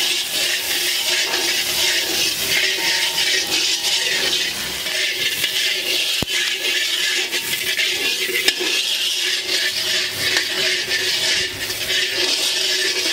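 Shallots, chillies and whole spices sizzling in hot oil in a black iron wok as they are sautéed, with a metal ladle scraping and knocking against the pan as it stirs. A sharp tap about six seconds in.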